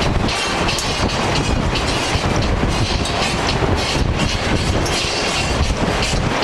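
Gale-force wind blowing across the microphone: a loud, steady rush with a heavy low rumble.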